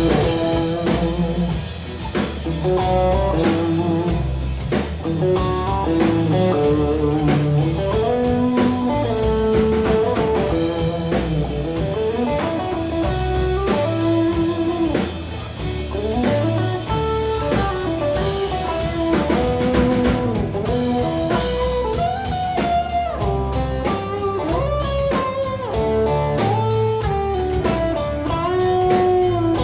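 Live band playing an instrumental break: a lead electric guitar line with bent, sliding notes over bass and drums.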